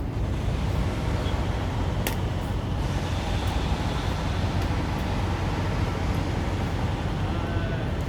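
Strong wind buffeting the microphone: a steady low rumble, with a single sharp click about two seconds in.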